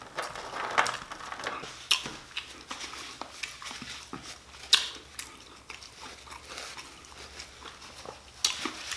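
Close-miked eating sounds: chewing French fries, with scattered short sharp mouth clicks, and a paper napkin rustling as hands and then mouth are wiped.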